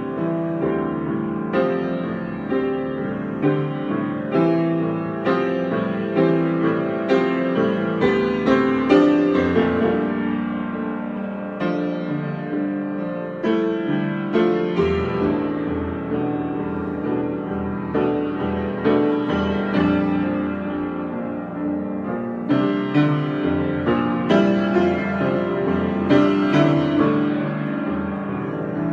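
Solo piano improvisation, chords and notes struck at an unhurried pace and left to ring over low bass notes.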